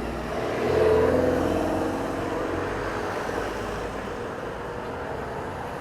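A motor vehicle driving past, its sound swelling to a peak about a second in and then fading slowly, the pitch dropping slightly as it goes by.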